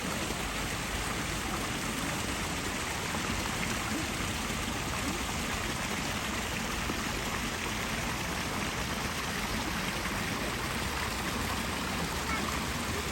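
Steady rush of water falling and running at a waterfall, an even hiss that holds at one level throughout.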